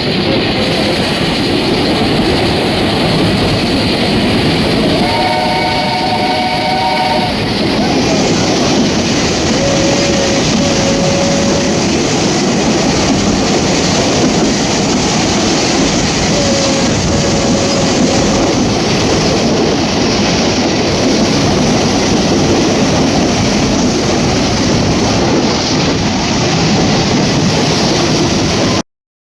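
Train running with steady, loud wheel-and-rail noise. A whistle blows for about two seconds around five seconds in, and a faint thin squeal comes twice later. The sound cuts off abruptly near the end.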